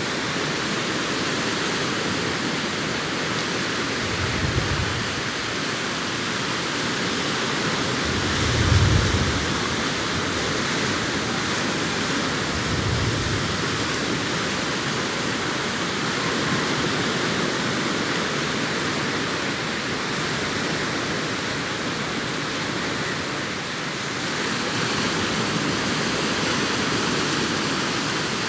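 Sea surf washing onto a beach, a continuous even rush of noise. Three low thumps stand out, the loudest about nine seconds in.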